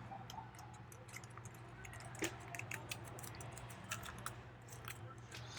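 Folded paper units being handled and pressed together while gluing: faint, scattered small taps and crinkles, the clearest about two seconds in, over a steady low hum.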